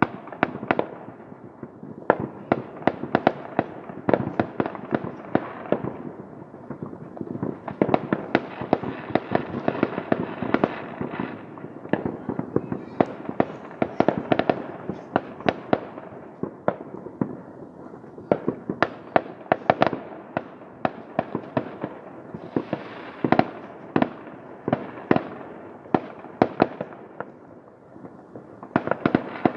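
Many fireworks going off at once, a dense, continuous stream of sharp bangs and crackles, several cracks a second.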